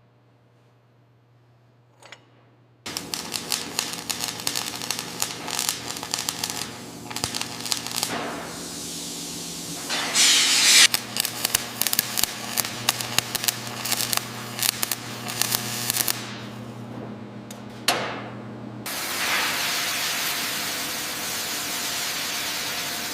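Workshop machinery: a faint low hum, then from about three seconds in a dense run of rapid clicks and rattles over a steady drone, with a loud burst of hiss about ten seconds in and a steady spraying hiss over the last few seconds.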